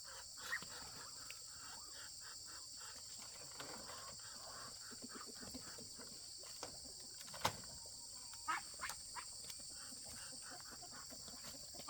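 Steady high-pitched insect chorus, with scattered clicks and knocks over it. The sharpest knock comes about halfway through, and a few more follow a second later.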